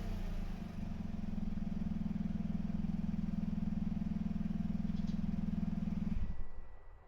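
Toyota Roomy Custom G-T's 1.0-litre turbocharged three-cylinder engine idling steadily through a Kakimoto GTbox 06&S aftermarket muffler, warmed up. The engine has settled to idle from a rev, and the sound dies away about six seconds in.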